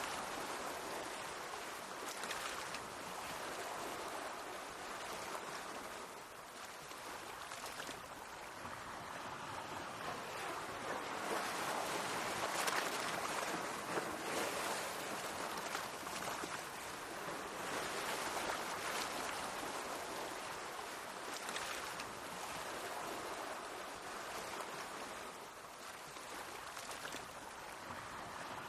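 Sea waves washing against the shore, a continuous rushing hiss of water that swells and eases every few seconds, loudest about halfway through.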